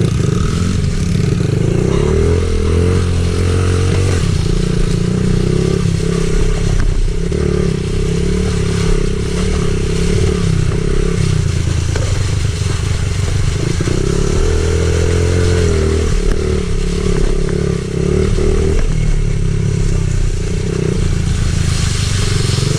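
Small pit bike engine running hard while being ridden, its pitch rising and falling repeatedly with the throttle and gear changes.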